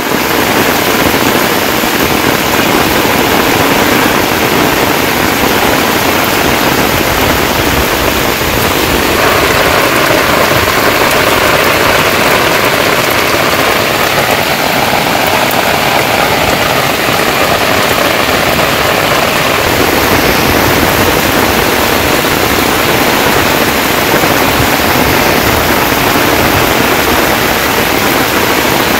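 Heavy rain falling steadily onto standing floodwater and wet ground, a loud even hiss of drops.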